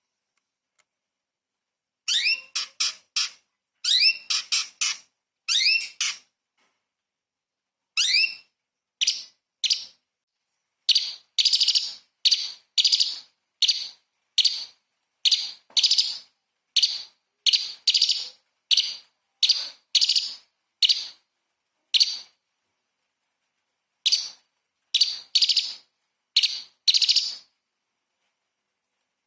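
Orange-bellied leafbird (cucak cungkok) singing, starting about two seconds in: a long run of short, sharp, high-pitched phrases in quick succession, broken by brief pauses. The first few phrases rise in pitch; later ones come as rapid bursts.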